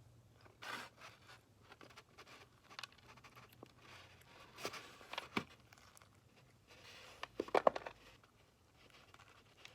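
Quiet handling noises: scattered small clicks, taps and rustles, with a short louder burst of scraping or crinkling about seven and a half seconds in.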